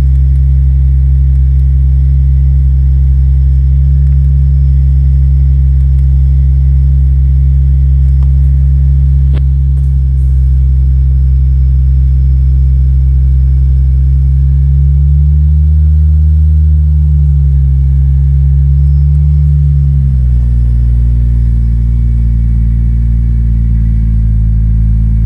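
Toyota 2JZ-GTE turbocharged straight-six, converted to a single turbo and running on E85, idling steadily while still cold shortly after a cold start. The idle speed rises briefly and falls back about two-thirds of the way through.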